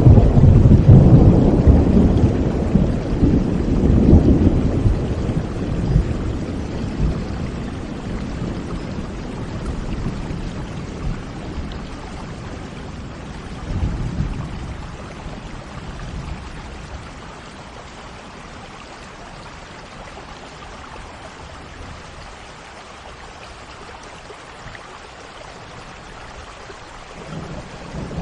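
Steady rain with rolling thunder. A long low rumble at the start fades away over several seconds, a smaller one comes about halfway, and another builds near the end.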